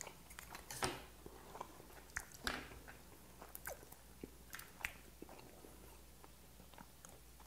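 Close-miked chewing of boiled white whelk meat: wet mouth smacks and sticky clicks, loudest about a second in and again after about two and a half seconds.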